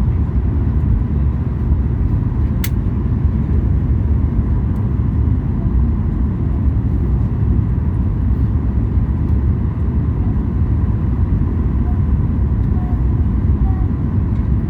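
Steady low rumble of a Boeing 737 MAX 8's cabin as heard from a passenger seat: engine and airflow noise with a faint steady tone above it, and a single light click about three seconds in.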